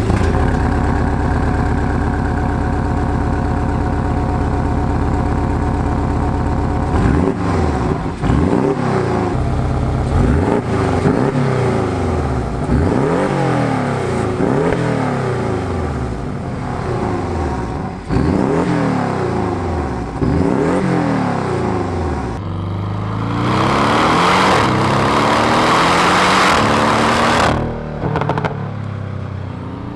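Porsche 718 Cayman S turbocharged flat-four engine through its Porsche Sports Exhaust, with a deep four-cylinder tone. It holds a steady note for several seconds, then runs through a series of rising and falling revs, then gives a louder rushing run that drops off suddenly near the end.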